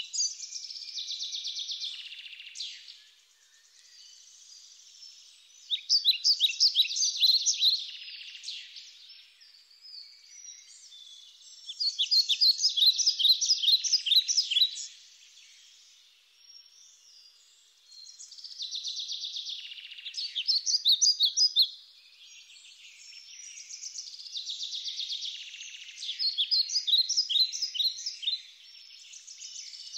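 Bird chirping: bursts of rapid high chirps, each lasting two to three seconds and coming about every six seconds, with quiet gaps between. There is no low sound under it.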